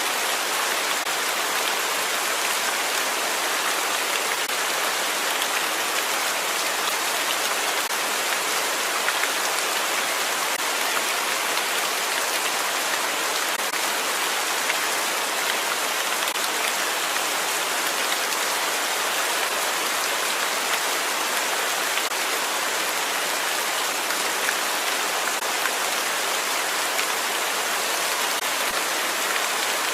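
Steady rain falling on a hard surface, a dense even patter without thunder.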